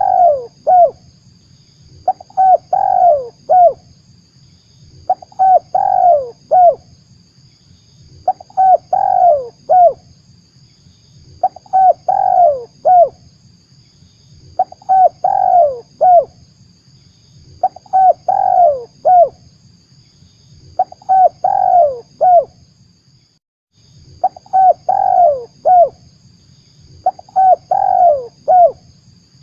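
Spotted dove (tekukur) cooing, the same phrase of several falling coo notes repeated about every three seconds: a lure call for attracting the bird.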